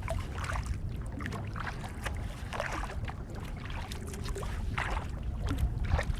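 Kayak paddle strokes dipping into calm lake water, a soft splash and drip every second or so, over a steady low rumble.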